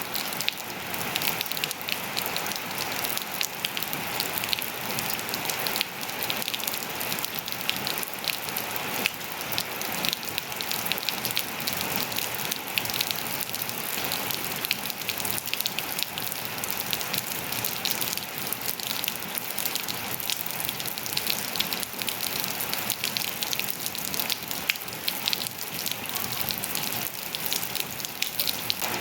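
Steady rain falling, with many fine drop ticks on hard surfaces against a constant hiss.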